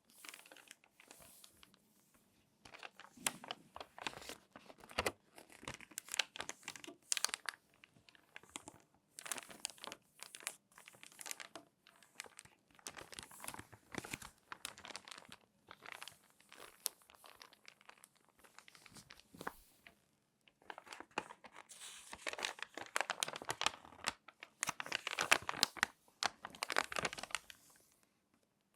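Crinkly magazine pages being folded and handled by hand close to the microphone: irregular bursts of paper crinkling with short pauses, the busiest and loudest stretch a few seconds from the end.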